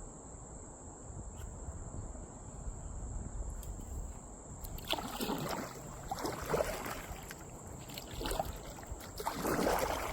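Kayak paddle strokes: from about halfway through, the blades dip and pull through the river water in four swishing strokes, the last the loudest. Underneath runs a steady high insect trill and a low rumble of wind or water.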